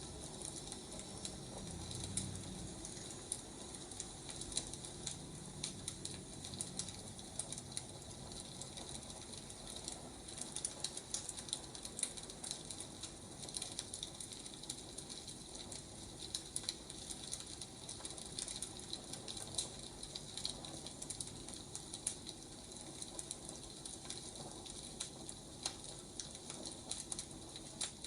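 Wood fire crackling, a steady faint hiss with many small irregular pops and snaps.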